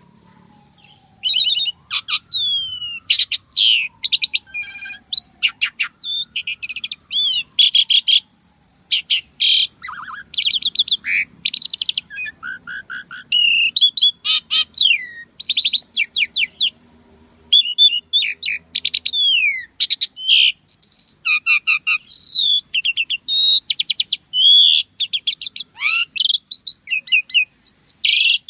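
Asian pied starling (jalak suren) singing continuously: a dense, varied jumble of high whistles, rapid clicking rattles and trills with scarcely a pause.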